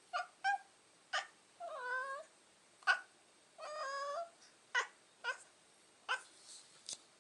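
A domestic cat vocalizing: a run of short mews with two longer, wavering meows in between, about 2 and 4 seconds in.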